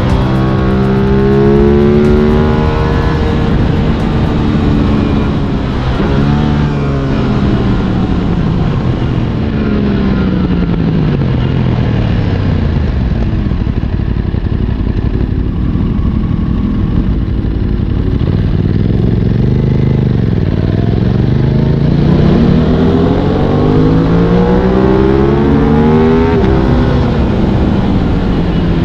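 Aprilia RS 660's parallel-twin engine under way, its revs repeatedly climbing and dropping with throttle and gear changes, over steady wind rush.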